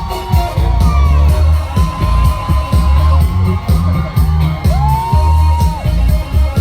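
Live dance-style trot music over a loudspeaker system: a heavy, pounding bass beat under long held melody notes, with the crowd whooping and cheering.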